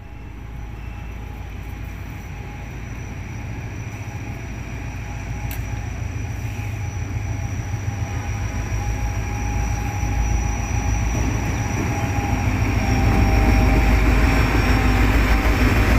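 Train running on the rails: a steady low rumble that grows gradually louder, with a thin, steady high whine above it.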